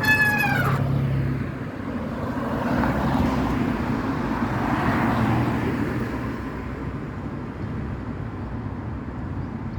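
Road traffic noise with motor vehicles passing, swelling twice and then easing off. A brief tone falls in pitch at the very start.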